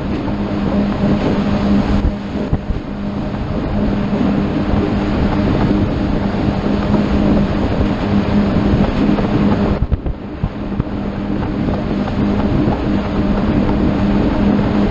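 Motorboat engine running steadily under way, with a constant hum, under the rush of wind on the microphone and water. The rushing noise drops briefly about ten seconds in.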